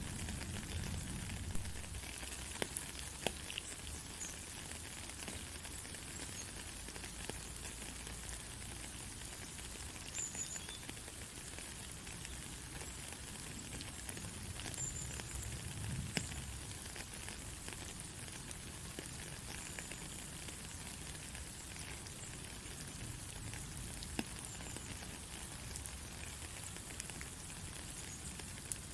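Steady rain falling, an even hiss dotted with scattered sharp drip ticks.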